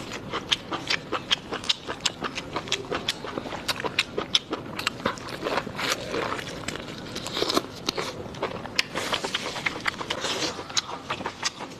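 Close-up eating sounds: someone biting and chewing a crunchy food, with many quick, crisp crunches a second.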